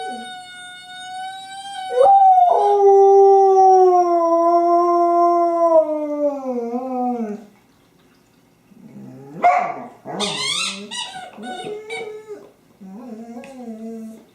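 A dog howling: a steady high note, then a long, louder howl that slides slowly down in pitch and wavers as it fades, followed by a burst of yips and a short wavering howl near the end.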